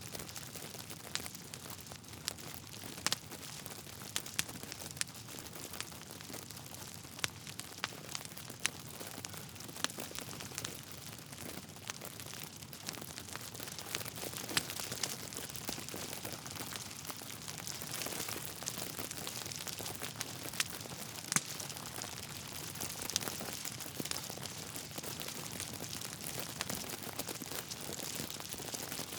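Wood fire burning in a fireplace: a steady hiss under irregular crackles from the burning logs, with a few louder pops scattered through.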